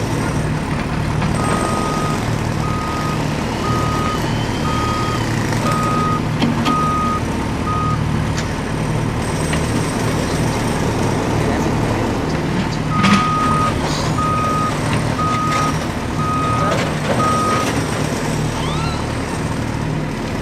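Heavy construction vehicle's engine running steadily while its reversing alarm beeps at an even pace, a run of about seven beeps, a pause, then about five more.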